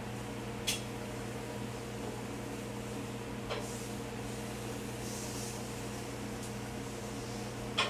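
Casablanca Panama II ceiling fan running steadily in demo mode: a low motor hum with air noise. Two sharp clicks cut through, about a second in and near the end, with a fainter one midway.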